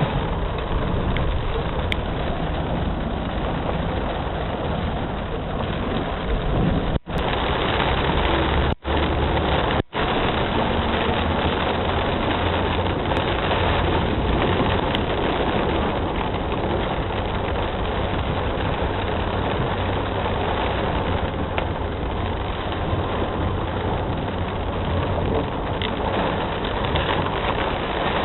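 Heavy rain falling in a steady hiss, with a low rumble underneath. The sound cuts out for an instant three times, between about 7 and 10 seconds in.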